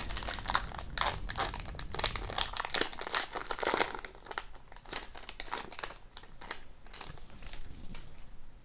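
Foil wrapper of a hockey card pack being torn open and crinkled by hand, a dense crackle for the first few seconds that thins out toward the end.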